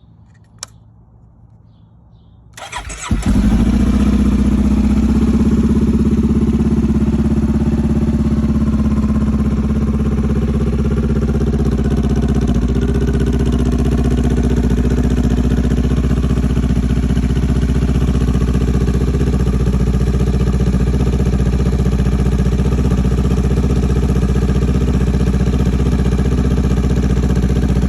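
2019 Honda CB500X's 471 cc parallel-twin engine cold-started at about freezing: a small click, a short burst of the starter cranking about two and a half seconds in, then the engine catches and runs at a steady idle, a little higher at first before it settles.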